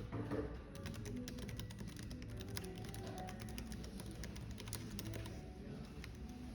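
Typing on a computer keyboard: a quick, irregular run of key clicks over soft background music.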